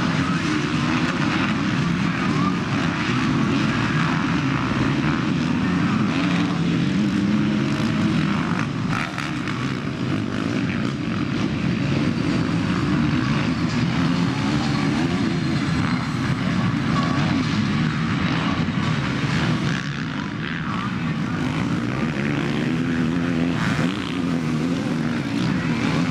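Several motocross bikes racing, their engines revving up and down continuously as they rise and fall in pitch. The sound dips briefly twice.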